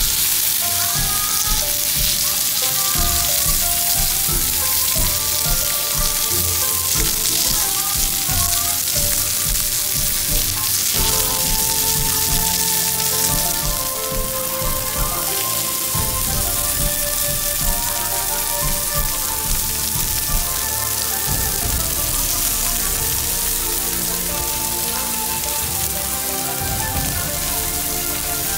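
Ribeye steak, then asparagus, sizzling and frying in a hot pan, a dense steady crackle. Light background music with short melodic notes plays along with it.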